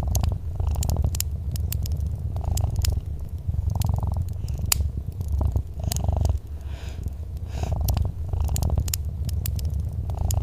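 Domestic cat purring close up: a continuous low rumble that swells and eases with each breath. Sharp pops and crackles from a wood fire in a fireplace are scattered throughout.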